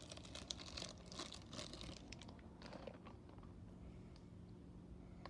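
Faint crinkling and rustling of plastic as die-cast toy cars are handled, busiest in the first two seconds, then a few light clicks.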